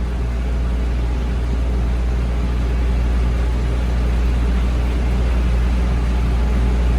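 Heavy diesel work-truck engine running at a steady speed: an even, deep drone that holds level throughout.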